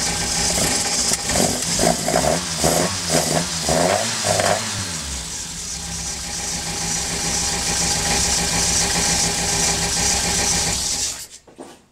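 Toyota 4A-GE twin-cam four-cylinder engine running with its timing belt and cam gears exposed. It rises and falls in revs several times in quick succession in the first few seconds, settles to a steady idle, then is switched off about eleven seconds in and dies away.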